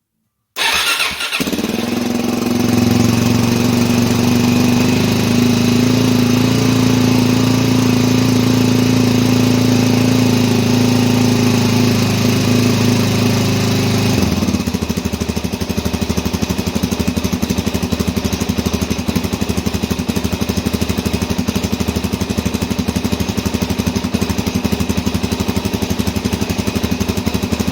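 2017 Suzuki DRZ400SM's single-cylinder four-stroke engine catching on a cold start with the choke on, then running at a steady fast idle through its stock exhaust. About halfway through, the idle drops to a slower, lumpier beat.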